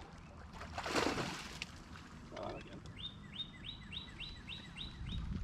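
A bird calling: a run of about eight quick rising notes, roughly three a second, starting about three seconds in. A brief rushing noise comes about a second in.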